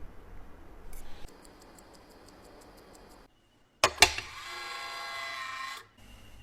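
Mechanical watch ticking, about five or six ticks a second. Just past the middle come two sharp clicks and then a ringing tone of several pitches that cuts off suddenly.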